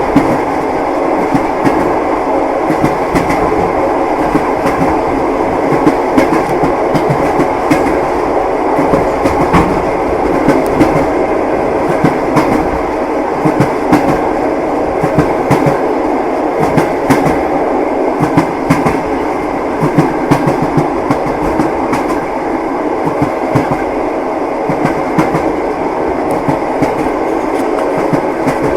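Passenger train carriage rolling at steady speed: a continuous rumble with the wheels clacking over the rails, many short clicks throughout.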